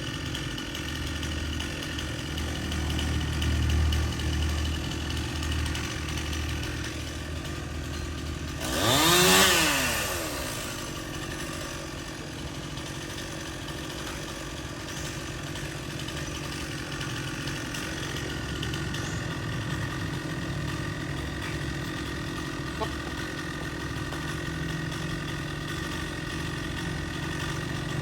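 Chainsaw engine running steadily, mostly idling, with one brief rev that rises and falls about nine seconds in.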